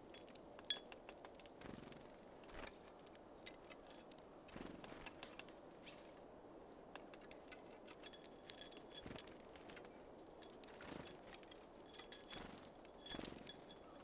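Small birds at a feeder: irregular sharp ticks and taps of beaks and feet on seeds and the feeder, with a couple of brief high chirps about six seconds in.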